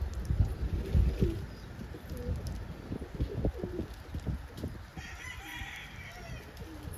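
Domestic pigeons cooing, short low gliding calls repeating, with a brief higher-pitched sound about five seconds in.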